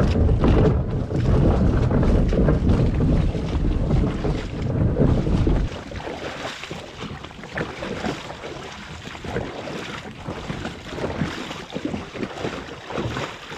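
Heavy wind rumble on the microphone for about the first half, cutting off suddenly. It leaves rushing river water around a kayak in a rapid, with scattered knocks and splashes.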